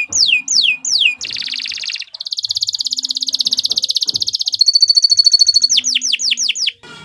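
Domestic canary singing a varied, loud song. It starts with quick downward-sweeping notes, about three a second, moves into a long, very rapid buzzing trill, then a trill with a clear whistled tone over it, and returns to the sweeping notes before cutting off abruptly near the end.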